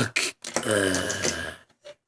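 A person's voice making a short vocalised sound, about a second long, just after a couple of quick clicks.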